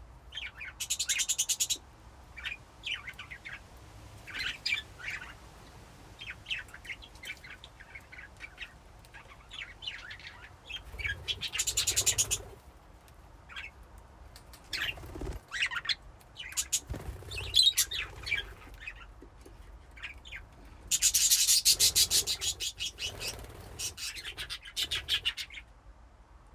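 Budgies chirping and chattering: many short, sharp calls scattered throughout, with a few louder, buzzy bursts of a second or more, the longest about three-quarters of the way through.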